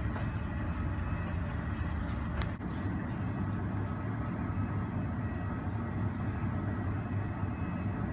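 Steady low rumble of airport apron noise heard through terminal glass, with a faint steady whine over it. A single short click comes about two and a half seconds in.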